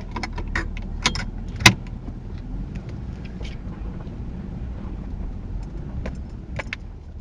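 Ford Crown Victoria police car's V8 running with a steady low rumble, heard from inside the car, with a few sharp clicks and rattles over it, the loudest about a second and a half in.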